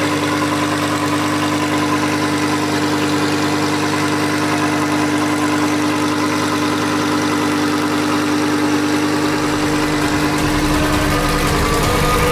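Lamborghini Huracán Performante's naturally aspirated V10 idling steadily, a smooth even engine note; a deeper low rumble fills in about nine seconds in.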